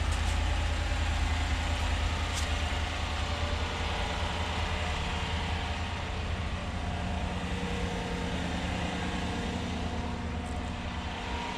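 2016 Chevrolet Silverado's 5.3-litre V8 idling steadily through its stock exhaust and factory muffler, a low, soft exhaust note described as too quiet for a truck.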